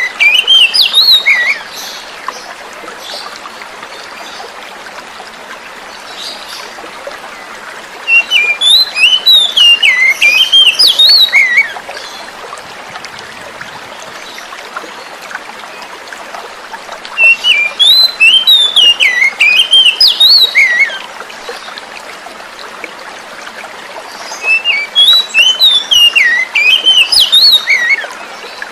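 Oriental magpie-robin (kacer) song: bursts of quick, varied whistled and chattering notes, each about three to four seconds long, coming back about every eight seconds. Between the bursts there is a steady background of flowing water.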